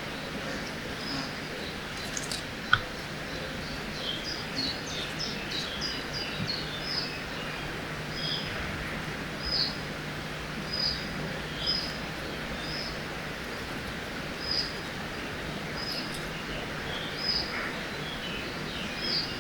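Riverside forest ambience: a steady rush of flowing water under birdsong. Several birds call in the first half, and through the second half one bird repeats a short high chirp about once a second.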